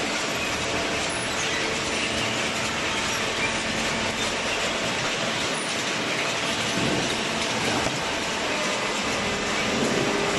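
Industrial cardboard baling machinery running: a steady mechanical din with rattling and clatter.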